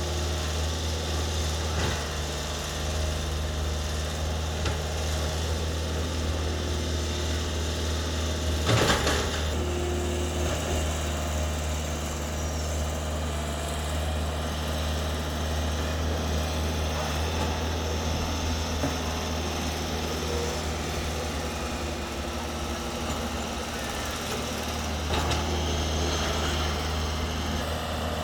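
Excavator's diesel engine running steadily with a low drone, with a loud metallic clank about nine seconds in and a few lighter knocks.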